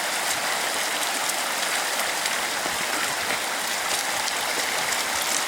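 Fast-flowing mountain stream rushing, a steady even hiss of water with a strong current.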